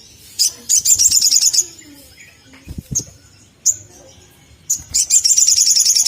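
Sunbird calling: two fast, high trills of rapid chirps, each a little over a second long, with single sharp chips between them.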